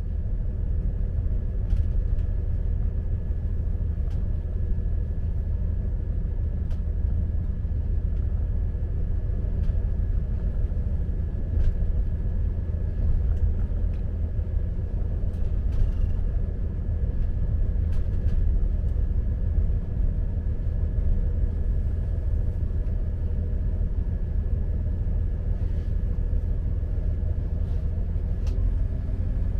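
Steady low rumble of a diesel multiple unit train running along the line, heard from on board. A rising engine note comes in near the end.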